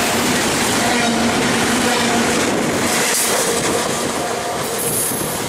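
Double-stack container cars of a freight train rolling past at speed: a steady noise of steel wheels on rail. It eases off a little near the end as the last car goes by.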